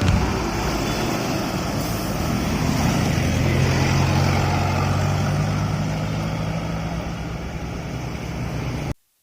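Heavy truck engine running, a steady low hum that swells and eases a little over traffic noise, cutting off abruptly near the end.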